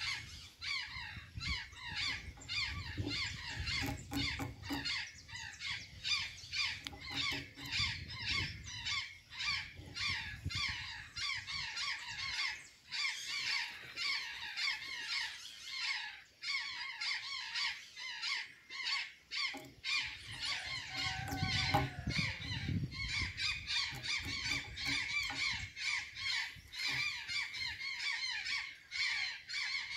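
Birds calling in a dense, continuous stream of quick squeaky chirps, several a second, with a few low rumbles underneath.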